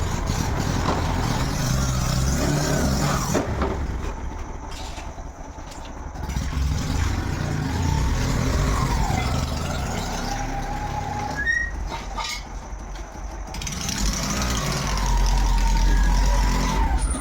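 Motor vehicle engine running steadily, a low rumble that grows louder near the end, with faint voices mixed in.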